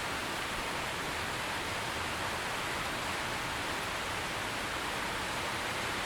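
Steady heavy rain, an even hiss with no thunder or distinct drops.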